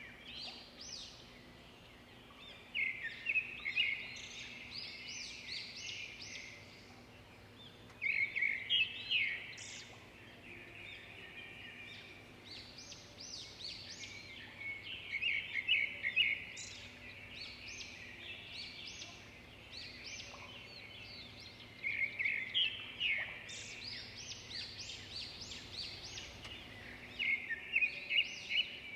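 Songbirds singing: phrases of rapid, high chirps that recur every five or six seconds, over a faint steady low hum.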